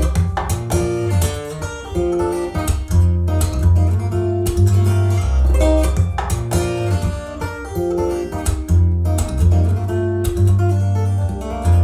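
Guitar music with plucked notes over deep, sustained bass notes, played back through Sonus Faber Lumina V hi-fi loudspeakers and recorded in the room.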